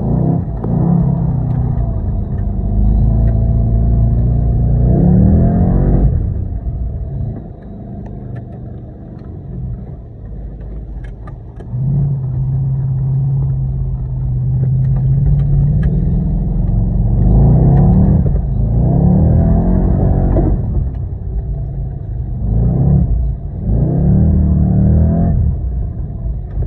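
Off-road vehicle's engine revving hard again and again, pitch climbing and dropping, with a quieter steadier stretch in the middle before a run of quick revs near the end.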